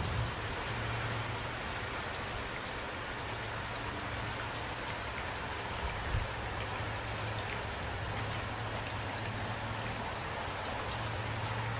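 Steady rain falling, with individual drops ticking over an even hiss and a low hum underneath. One soft thump comes about six seconds in.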